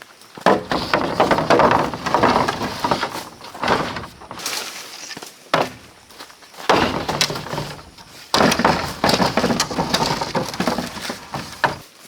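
Dry plant material crackling and snapping in repeated bursts of one to three seconds, each made of many quick cracks, with short pauses between.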